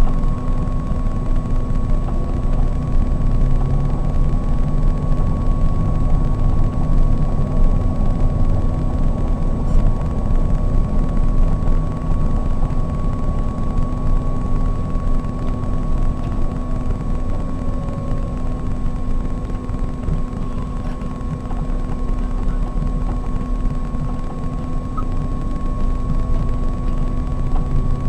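Scania K420 coach's six-cylinder diesel and tyres running steadily at cruise, heard from inside a Marcopolo 1800 DD double-decker: a continuous low drone with a steady hum and a constant thin whine above it.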